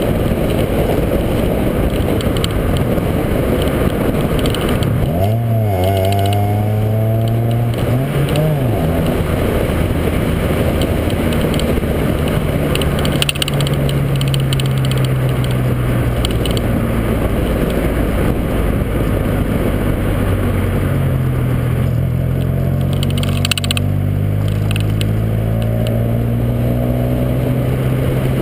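Honda Civic engine under way, heard from a camera on the outside of the front fender over heavy wind and road noise. The engine note dips and climbs again about five seconds in, then rises gradually near the end as the car speeds up.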